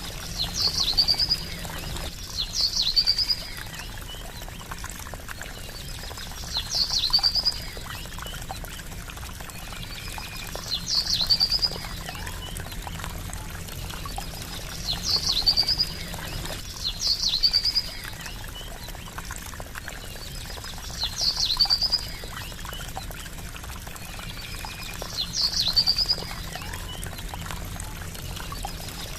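Water trickling steadily, with a bird repeating a short high call about eight times, each a sharp downward note running into a quick trill, every two to four seconds.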